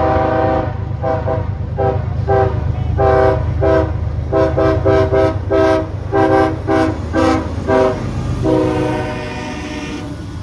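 CSX diesel locomotive's multi-chime air horn playing a horn show. It starts with a long blast, then gives a rapid string of short toots and a longer blast near the end, over the steady low rumble of the passing train.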